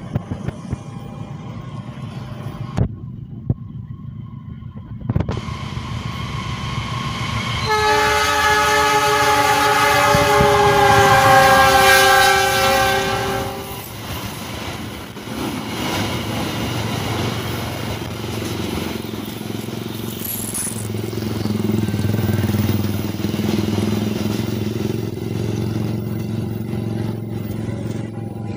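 CC 206 diesel-electric locomotive of a passenger train sounding a long multi-tone horn for about six seconds as it approaches and passes, the horn's pitch sagging slightly as it goes by. The engine and wheels grow louder before the horn, and after it the coaches roll past with a steady rumble on the rails.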